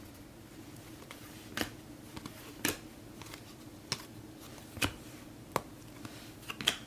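Topps Chrome football cards being flipped through one at a time, each card giving a short sharp click or snap about once a second.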